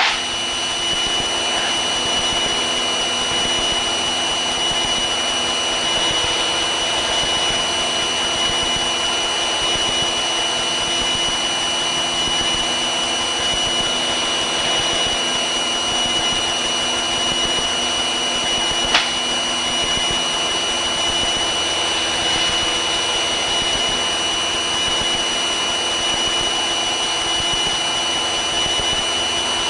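Piper Cherokee's four-cylinder Lycoming engine and propeller running steadily in flight, heard as an even drone inside the cabin. There is a single brief click about two-thirds of the way through.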